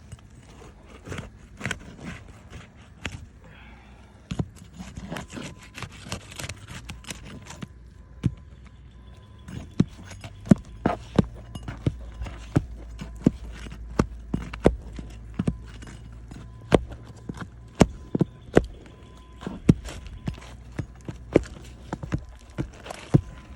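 A series of sharp knocks on a hard surface, scattered at first and then coming about once or twice a second from about ten seconds in, over a low rumble.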